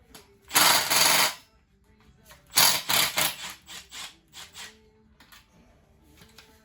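Small metal parts and tools being handled and shifted about: a rustling scrape about half a second in, then a run of short clattering rattles that trail off.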